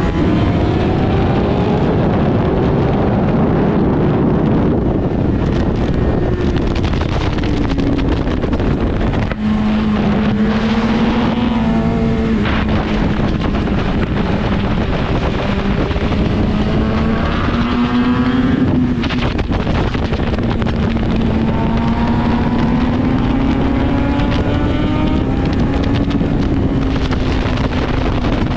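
BMW S1000RR inline-four sportbike engine under way, its note climbing and falling again several times as the rider gets on and off the throttle, with wind rushing over the helmet microphone.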